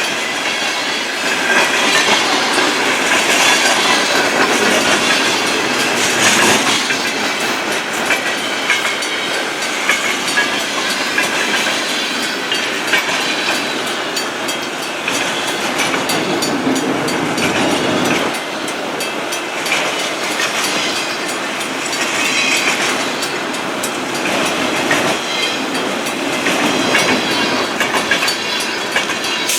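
Freight cars of a manifest train rolling past, their steel wheels clacking rhythmically over rail joints.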